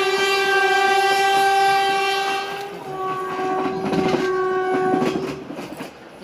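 Indian Railways locomotive horn sounding a long, loud blast that stops about two and a half seconds in, followed at once by a second, quieter blast of about the same length. Under the second blast is the rumble and clatter of the moving train.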